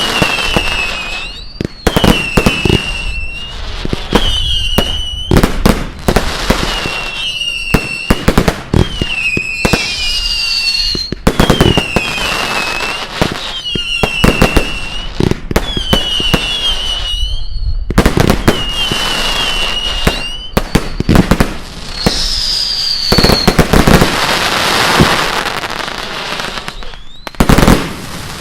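Fireworks going off in a rapid series of sharp bangs, one every second or two, most followed by a wavering high whistle and some by a falling whistle. Near the end comes a longer crackling hiss, then one last loud bang.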